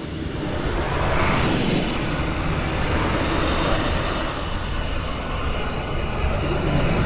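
Designed sci-fi 'windy space anomaly' sound effect: a rushing, wind-like hiss over a low rumble, swelling briefly about a second in.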